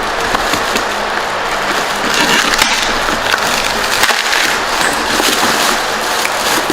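Continuous scraping and crackling of hardened spray-foam packing and a cardboard box being handled and pulled apart, with many small cracks and rubs throughout.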